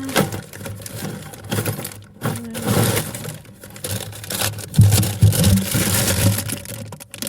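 A jar of metal screws and nails being rummaged through: irregular clinking and scraping, with gusty wind on the microphone.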